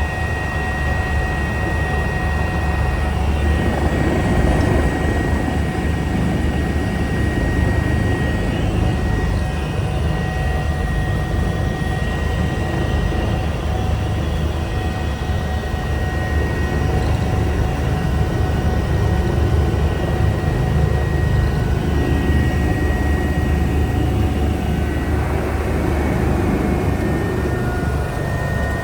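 Eurocopter EC145 helicopter running steadily in flight: a dense low rotor and engine rumble with a constant high turbine-and-gearbox whine over it.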